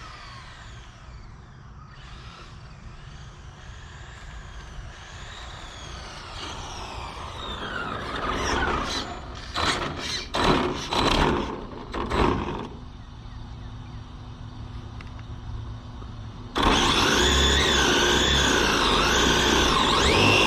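A Losi 22S 1/10 RC drag car making a test pass. Its brushless electric motor whines in rising and falling glides, and is loudest about eight to twelve seconds in, with gusty surges. Near the end a loud, steady whirring starts suddenly.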